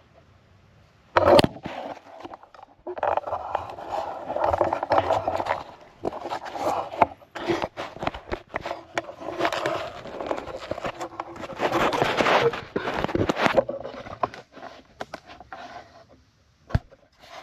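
Irregular scraping and clanking of metal exhaust pipe being handled and fitted by hand, with sharp knocks scattered among uneven scraping.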